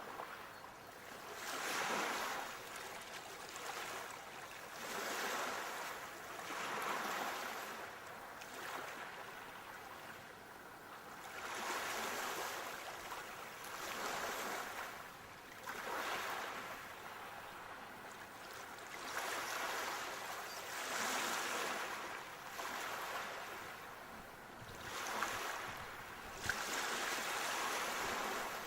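Sea waves breaking and washing up the shore, the rush of surf swelling and falling away over and over, every two to three seconds.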